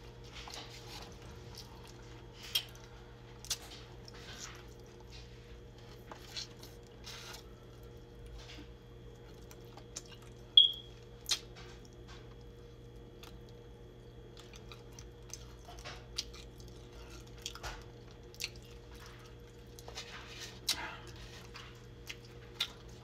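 Close-up chewing and wet mouth clicks of a woman eating chicken and spaghetti, with scattered sharper clicks, the loudest about ten and a half seconds in.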